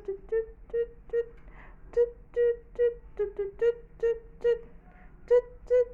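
A steady rhythm of short, pitched 'tut' hoots, about two to three a second.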